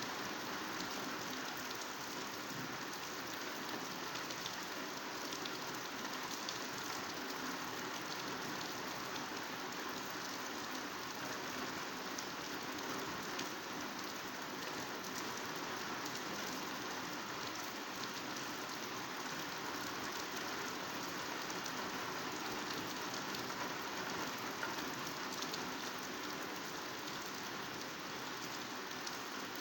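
Heavy, steady rain falling on foliage, a dense even patter of drops with fine ticks throughout.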